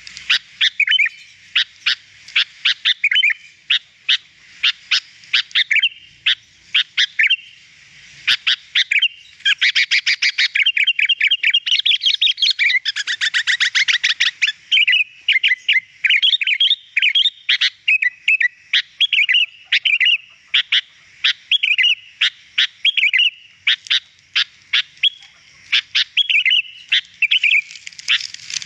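Sooty-headed bulbul (kutilang) singing: a run of sharp chirps and short whistled phrases with a fast, dense trill of rapid notes in the middle.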